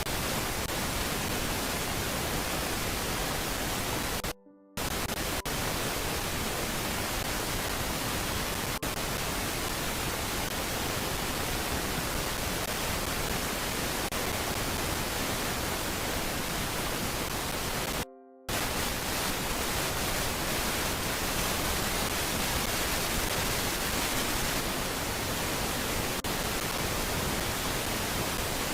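Steady static-like hiss from a nest camera's audio feed, even across all pitches. It cuts out for a moment twice, about four seconds in and again near eighteen seconds.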